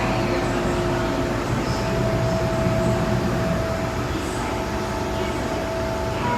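MTR M-Train standing in the station: a steady mechanical hum with a few constant tones.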